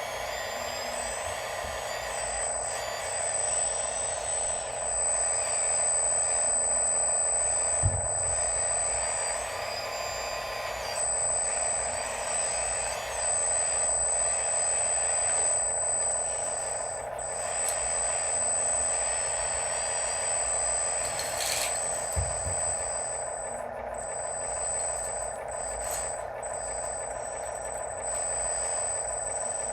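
Radio-controlled construction machines running: a steady motor whine and mechanical hum throughout, with two sharp knocks about eight and twenty-two seconds in.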